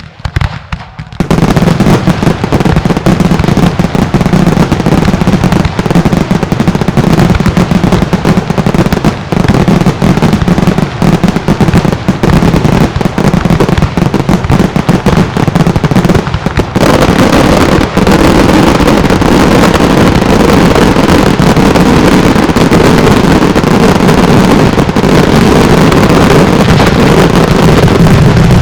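Mascletà barrage of firecrackers and salute reports: a sudden start, then a dense, rhythmic stream of loud bangs that thickens after about 18 seconds into one almost unbroken din.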